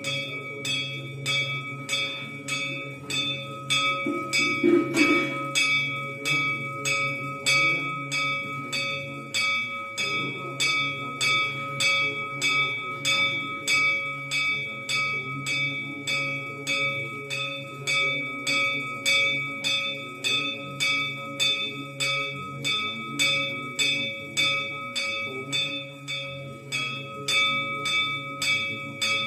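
Metal Hindu temple bell struck over and over at about two strikes a second, its ringing carrying on between strikes, with a low murmur underneath.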